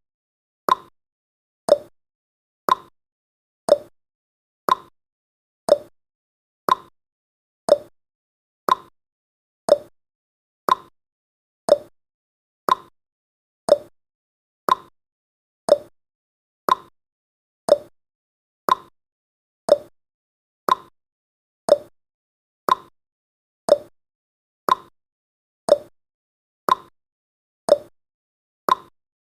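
Timer ticking sound effect, one short tick per second, alternating between a slightly higher and a slightly lower tick like a clock's tick-tock.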